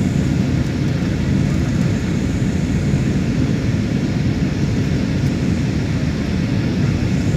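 Airliner cabin noise during the landing approach: a steady low rumble of engines and rushing air.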